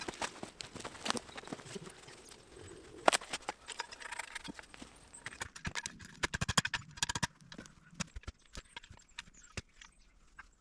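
A series of irregular sharp knocks and clicks, with a quick dense run of knocks in the middle.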